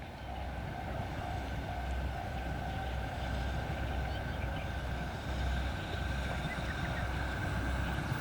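Freight train running on the Sōbu Main Line: a steady low rumble that swells and eases, with a faint steady whine above it.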